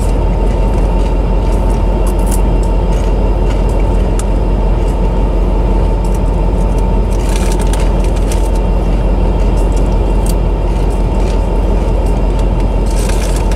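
Double-stack intermodal container train rolling past: a steady, loud rumble of steel wheels on rail with a constant high tone and scattered sharp clicks, a cluster of them about halfway through and again near the end.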